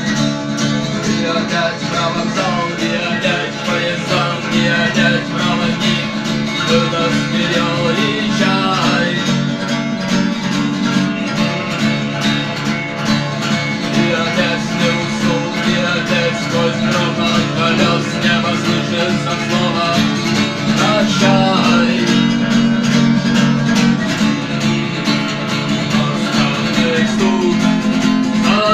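Acoustic guitar strummed in a fast, steady rhythm, playing a rock song.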